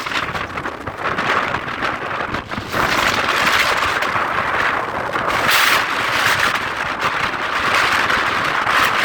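Strong wind blowing in gusts, a loud rushing noise that swells and eases, with its strongest gust about five and a half seconds in.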